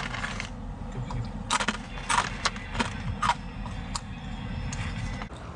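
A few short, light knocks and clicks over a steady low rumble, with an abrupt change about five seconds in.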